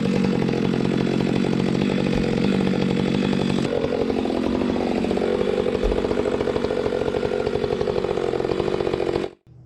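Gas chainsaw running at high revs, its note shifting a little about a third of the way in. It cuts off abruptly near the end.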